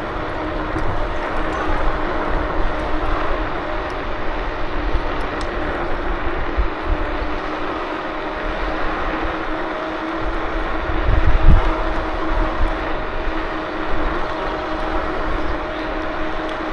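KuKirin G2 electric scooter on the move: a steady motor whine over tyre and road noise and wind buffeting the microphone, with a brief low rumble about eleven seconds in.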